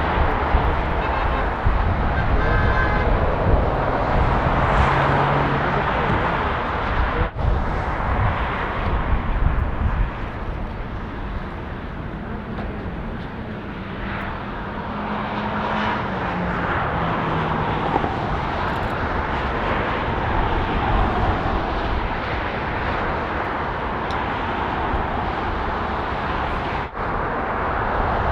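Jet airliner engines running, a steady broad roar with faint tones gliding lower in the middle. It drops out for an instant twice, about seven seconds in and near the end.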